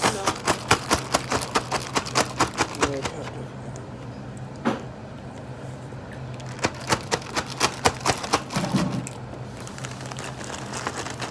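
Someone chewing close to the microphone, with quick wet mouth smacks about four or five a second in two runs, the second starting about six and a half seconds in, and a single click in the quiet between.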